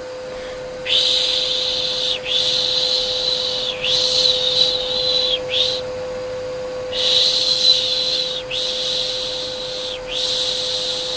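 Rhythmic shushing, a soft 'shh' repeated about every second and a half with a brief pause near the middle, over the steady hum of a vacuum cleaner.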